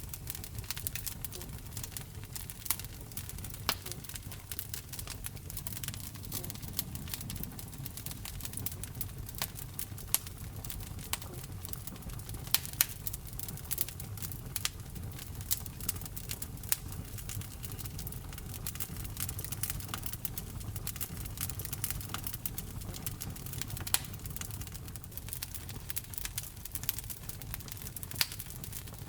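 Wood fire burning in a fireplace: a steady low rumble of flames with irregular crackles and sharp pops throughout, a few louder snaps standing out.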